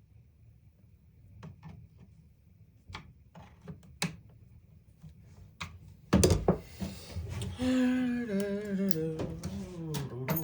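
Light clicks and taps of tools being handled, then a loud clunk about six seconds in, like a tool being set down on the bench. After that a man hums a wavering tune to himself.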